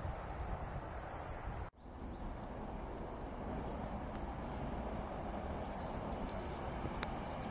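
Small birds chirping over steady outdoor ambience. A sudden cut about two seconds in brings a steady low rumble from a distant approaching Class 66 diesel freight locomotive, growing slowly louder. One sharp click near the end.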